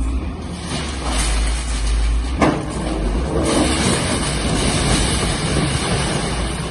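Demolition-site noise: heavy machinery running, with a sharp knock about two and a half seconds in.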